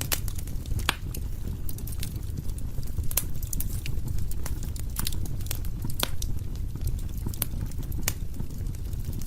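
Wood fire burning in a fireplace, crackling with frequent sharp pops and snaps at irregular intervals over a steady low rumble.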